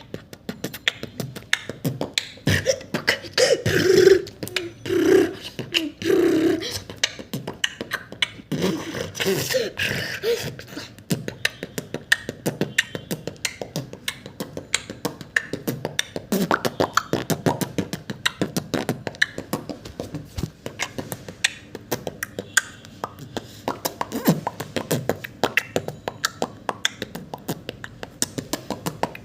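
A person beatboxing: rapid mouth-made clicks and drum-like hits in a fast, dense rhythm. Between about 3 and 7 seconds in, a few short hummed notes run under the beat.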